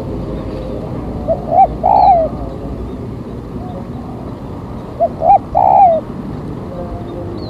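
Spotted dove (tekukur) decoy cooing, the lure call used to draw wild doves down. It gives a three-note coo twice, about three and a half seconds apart, over steady background noise.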